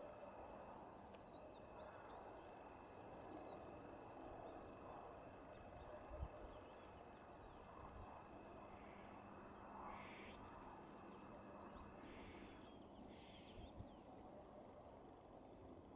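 Near-silent open field: faint, scattered chirps and twitters of small birds, over a thin steady high tone and a low outdoor hiss. A soft thump about six seconds in.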